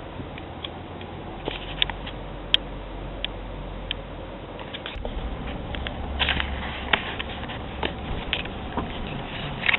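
Car cabin noise while driving: a steady low engine and road hum that shifts about halfway through, with scattered sharp clicks and taps that grow more frequent near the end.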